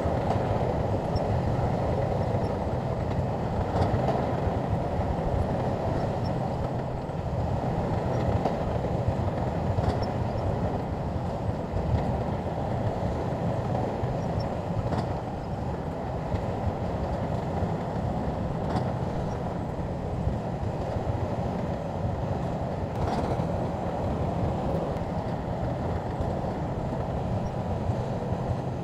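Crawler bulldozer's diesel engine running steadily, with a sharp clank from its steel tracks every few seconds.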